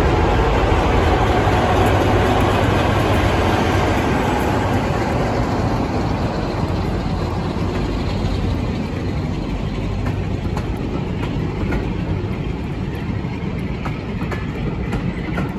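Diesel locomotive climbing a steep 1-in-36 gradient, its engine loud as it passes and slowly fading. The coaches then roll by with sharp wheel clicks over the rail joints.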